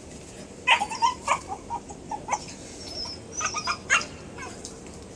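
A series of short, high-pitched animal cries in quick succession, in two clusters about a second apart.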